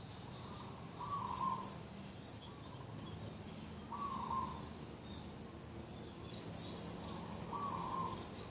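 A dove calling three times, a short coo about every three seconds, with small birds chirping faintly higher up.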